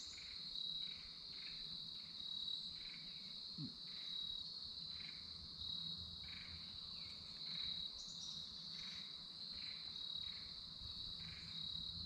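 Crickets trilling in a steady, unbroken high-pitched chorus, with a lower insect chirp repeating roughly once or twice a second.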